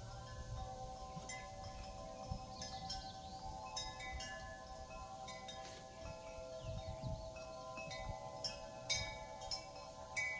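Korean temple eave wind bell (pungyeong) ringing in the wind. Its clapper strikes at uneven intervals, and each strike's tones ring on and overlap into a steady hum. There is a low wind rumble beneath.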